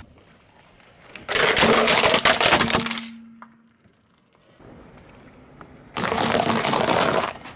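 Crunching and cracking of brittle objects being crushed under a car tyre, in two bursts: one of nearly two seconds starting about a second in, and a shorter one near the end.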